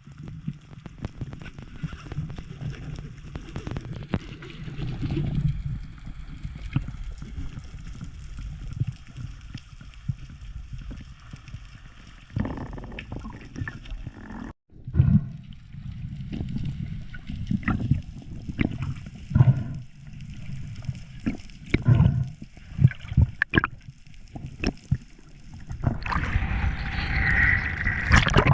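Muffled water gurgling and sloshing with irregular dull knocks, heard through a camera in the sea. A higher-pitched tone comes in near the end.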